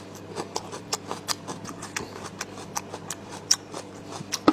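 Mouth noises of eating meat: chewing and lip smacking, heard as irregular short clicks and smacks several times a second, with one sharper click near the end.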